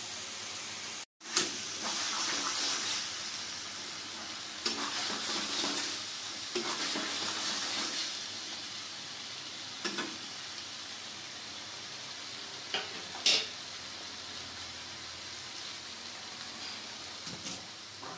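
Mushroom fry sizzling in a kadai while a spatula stirs and scrapes it in several spells. A few sharp knocks of the spatula on the pan come through, the loudest about two-thirds of the way in. The sound cuts out for an instant about a second in.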